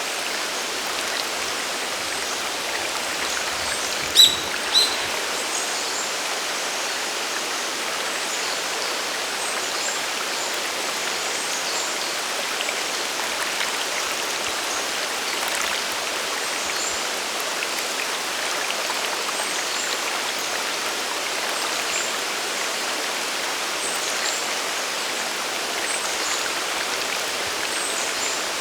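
Mountain waterfall water rushing steadily as an even hiss. Two brief sharp sounds stand out about four seconds in, half a second apart.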